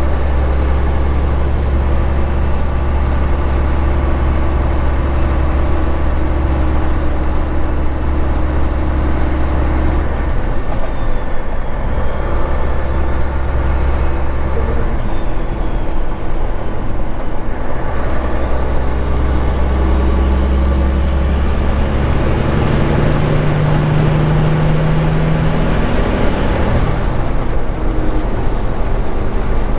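Straight-piped Caterpillar 3406E diesel pulling hard, its low exhaust note breaking off and coming back a few times. About twenty seconds in, a high turbo whistle rises, holds for several seconds and falls away as the upgraded turbo boosts to around 40 psi.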